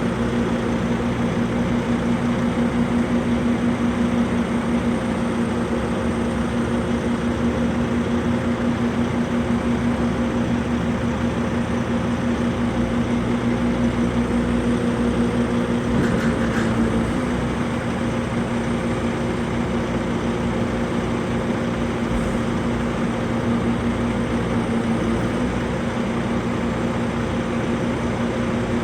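Vehicle engine running steadily with a constant hum and road noise; the level drops slightly about seventeen seconds in.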